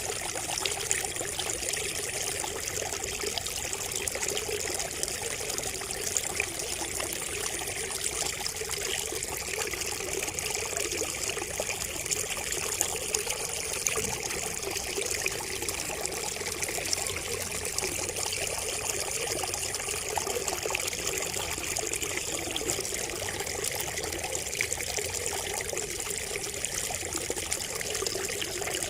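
Water trickling and splashing steadily from a bamboo spout, a continuous patter of small drips and splashes.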